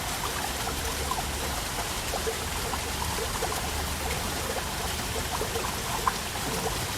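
Waterfall: a steady rush of falling water, with small splashes and trickles dotted through it.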